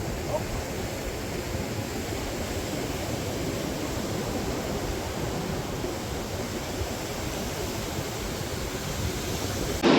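Steady rush of surf and wind on a beach, with wind rumbling on the microphone.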